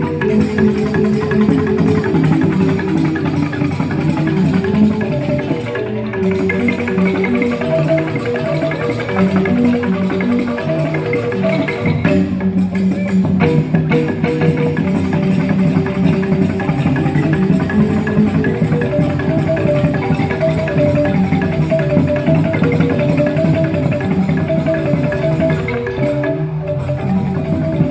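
Balinese joged bumbung gamelan music: bamboo xylophones playing fast, busy interlocking note patterns with percussion.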